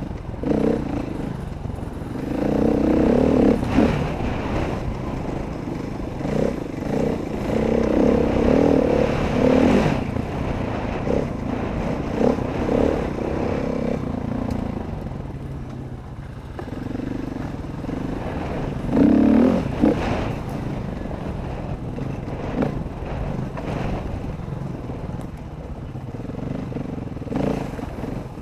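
Dirt bike engine running under a rider's throttle, its pitch and loudness rising and falling again and again, with a few knocks and rattles.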